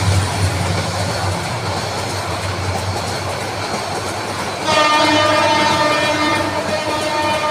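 Train running on the track with a steady noise of wheels and cars; about two-thirds of the way in, a train horn starts and holds a steady note.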